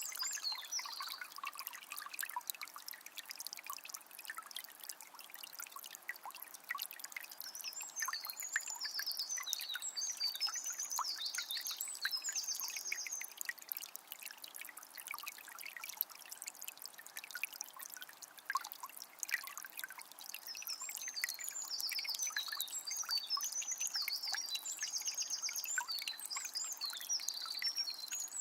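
Small spring's water trickling and dripping steadily. A songbird sings high, fast trilled phrases in two bouts, about a third of the way in and again near the end.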